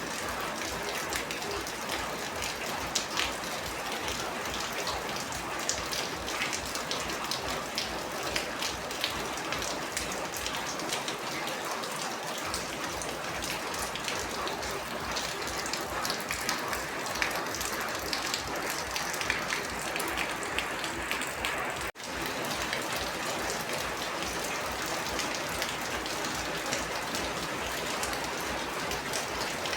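Steady rain falling on a surface, with many close individual drops ticking through the even hiss. The sound drops out for an instant about two-thirds of the way through.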